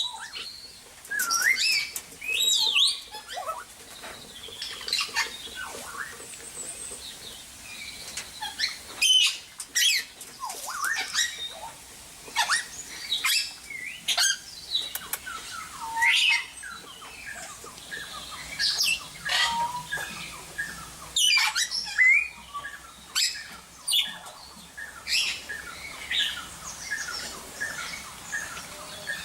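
A group of birds calling continuously: many short chirps and quick whistled sweeps, overlapping one another.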